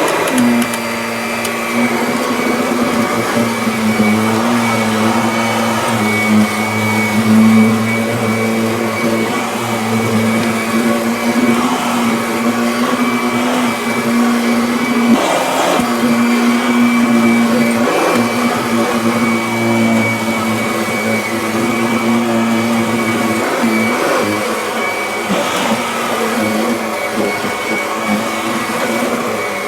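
Kirby Avalir vacuum cleaner running on carpet: a steady motor hum with a high whine. The pitch wavers and briefly dips a few times.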